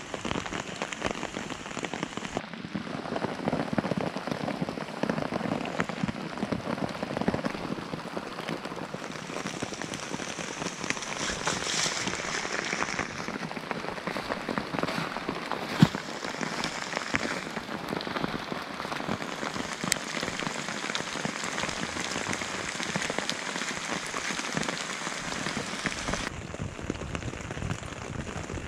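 Steady rain pattering on a camouflage poncho shelter and the wet leaf litter around it, a dense patter of drops, with one sharper drop tap about halfway through.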